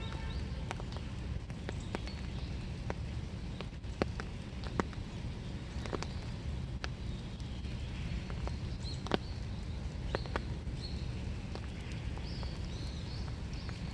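Winter rain dripping, with scattered single drops ticking irregularly on leaves and surfaces over a steady low background hum. Faint short bird chirps come in the second half.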